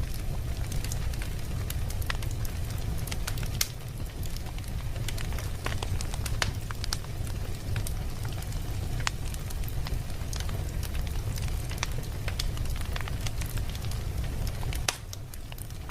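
Wood fire in a fireplace crackling, with many scattered sharp pops and snaps over a steady low rumble of the flames.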